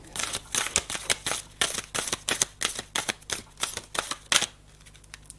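Deck of cards being shuffled by hand: a quick run of sharp card clicks that stops about four and a half seconds in.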